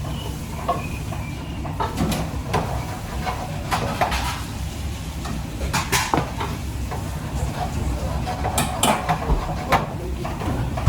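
Kitchen clatter: metal utensils, pots and dishes clinking and knocking at irregular moments, over a steady low rumble.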